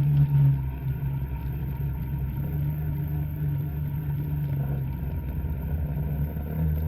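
Two-stroke snowmobile engine running at a steady, fairly even speed, a little louder for a moment at the start.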